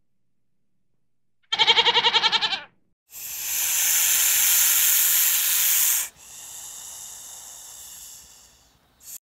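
A goat bleats once, a quavering call about a second long. Then a snake hisses: one loud hiss of about three seconds, a quieter one of about two and a half seconds, and a brief hiss near the end.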